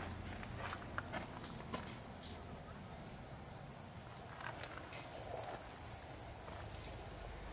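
Steady high-pitched insect chorus, with a few light taps in the first couple of seconds.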